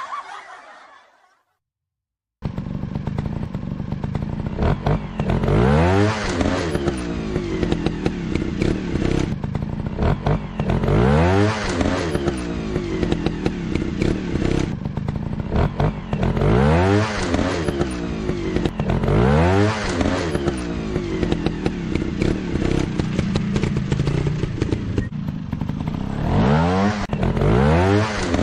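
Dirt-bike engine running, revved up and back down five or six times over a steady drone, with the revs repeating at fairly even spacing. A snicker of laughter fades out just before the engine starts, about two seconds in.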